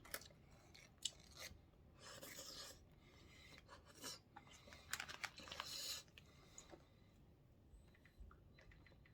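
Quiet close-up eating sounds: a dumpling being chewed, with two soft rasping spells and a few small clicks.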